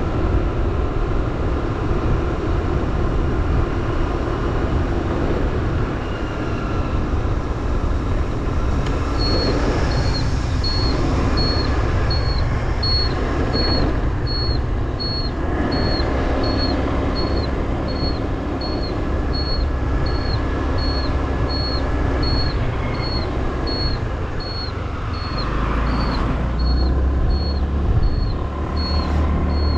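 Motorbike being ridden: engine running under a heavy rumble of wind on the microphone. From about nine seconds in, a short high beep repeats steadily about three times every two seconds, the sound of the bike's turn-signal beeper.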